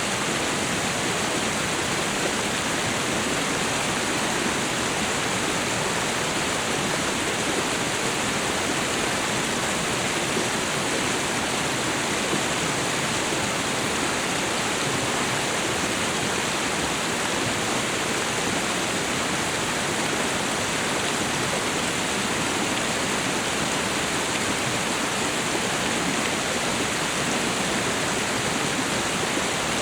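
A waterfall and river, water rushing in a steady, unchanging wash of noise.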